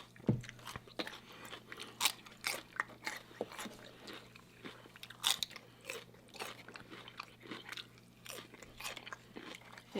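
Close-miked eating of Nashville hot lobster tail and crab legs: biting and chewing, with irregular crunching clicks and one heavier thump about a third of a second in.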